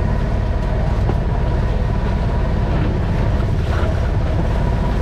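Vehicle engine running steadily, a continuous low rumble with a fast even pulse, with some wind rumble on the microphone.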